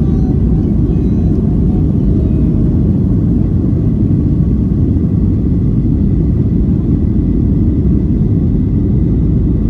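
Steady, loud low rumble of an airliner's jet engines and airflow, heard from inside the passenger cabin during takeoff, with a faint steady high whine above it.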